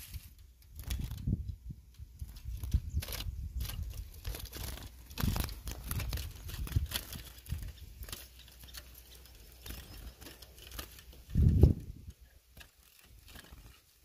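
Irregular rustles, taps and flutters from a small trapped bird flapping against the bars inside a wooden-and-wire cage trap, with low rumbling handling noise and one loud low thump about eleven and a half seconds in.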